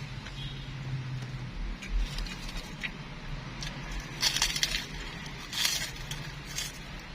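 Eating sounds: scattered small clicks and two short crunching bursts, about four and five and a half seconds in.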